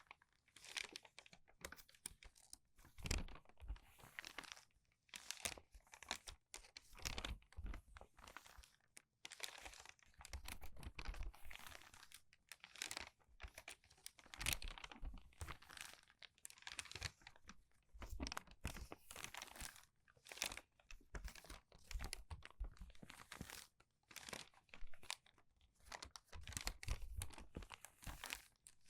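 Crinkled, pre-crumpled paper pages being turned quickly by hand, each turn a short crinkly rustle, about one a second, some with a soft low thud.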